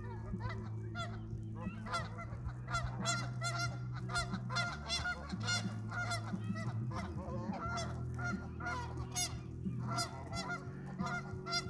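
A flock of geese honking continuously, many short calls overlapping, over a steady low hum.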